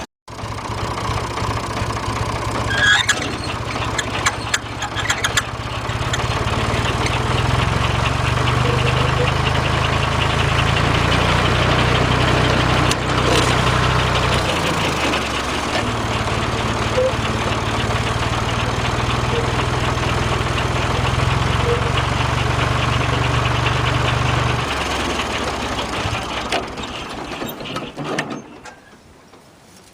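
Old sawmill's engine running steadily with a deep drone, changing briefly about halfway through, then winding down and stopping near the end.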